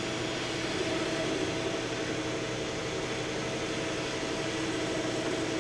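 Z axis of a Shizuoka Metal Master SV-4024 CNC vertical machining center traversing under its Fanuc AC servo drive: a steady machine hum with a few whining tones that swell slightly as the axis moves. The rapids and feeds sound smooth, a sign of healthy axis drives.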